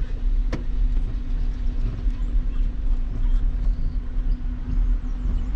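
Truck running with a steady low rumble and a steady hum, and one sharp click about half a second in.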